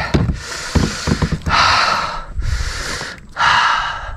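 A person breathing heavily: four long, noisy breaths about a second apart.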